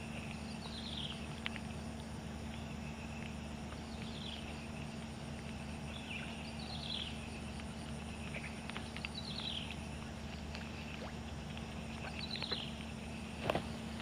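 A bird giving a short falling call over and over, about every three seconds, over a steady low hum. A single sharp click comes about a second before the end.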